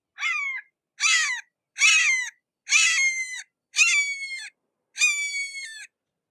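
Red-shouldered hawk calling a series of six harsh, downslurred calls, about one a second.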